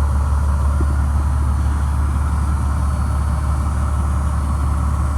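Detroit Diesel Series 60 inline-six diesel in a Pierce fire truck idling steadily with a deep, even hum.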